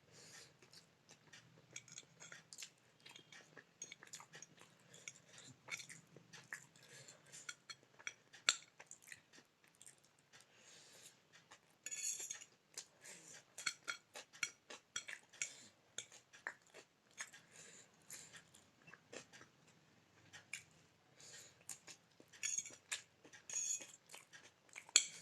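Pasta being eaten: a fork clinking and scraping irregularly against a plate, mixed with close-up chewing.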